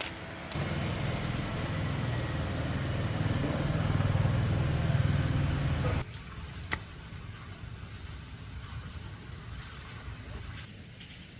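A motor engine running with a low rumble that swells a little, then cuts off abruptly about six seconds in. After that there is only quieter background noise and a single sharp click.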